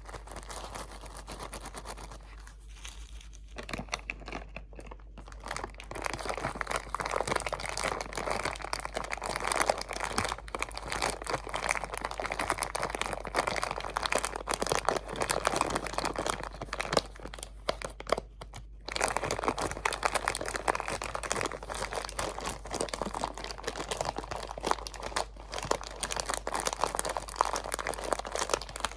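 Close-miked crinkling of plastic or foil wrapping, handled continuously in dense crackles, with two short pauses: one after the first couple of seconds and one about two thirds of the way through.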